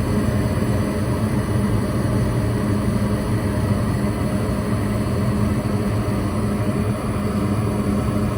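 Furnace fan motor running steadily: an even rush of air with a low, constant hum.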